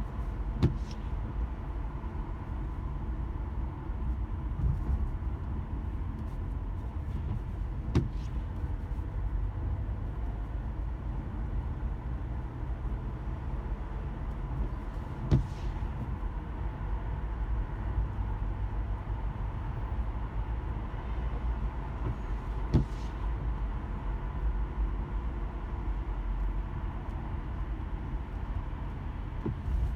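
Inside a car driving slowly in light rain: a steady low rumble of engine and road, with a short sharp knock four times, about every seven and a half seconds.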